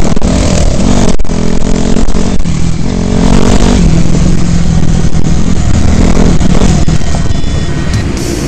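Dirt bike engine revving, its pitch rising and falling repeatedly as the throttle is opened and closed.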